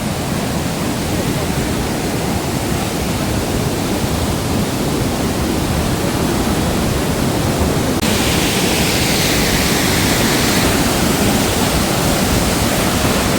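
Heavy rushing water from a waterfall stream in high flow after rain: a loud, steady hiss with no pauses. About eight seconds in it turns brighter and louder in the upper range.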